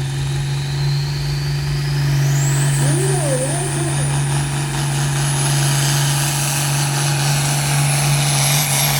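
Pulling tractor's engine running steadily, with a high whine that rises about two seconds in and then holds.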